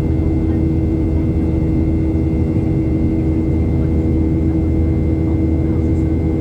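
Steady cabin drone of a Boeing 737-800 in flight, its CFM56-7B jet engines running at an even climb power, with a constant hum and a faint steady whine over the air noise.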